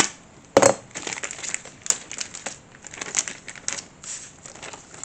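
Packaging of a model-kit parts pack being opened and handled: irregular crinkling and crackling, with a sharp click at the start and a louder crunch about half a second in.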